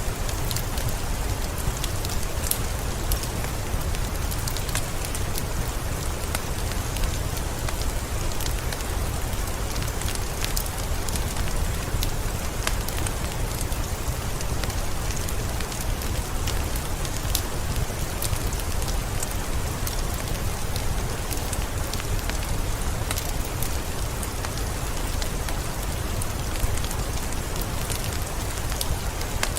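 Steady rain falling, with frequent small crackles and pops from a wood fire in a fireplace mixed in.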